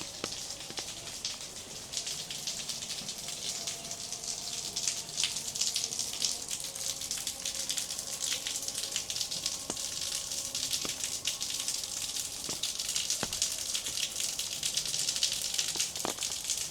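Rain falling: a steady hiss of drops with many small crackling ticks as they strike nearby surfaces.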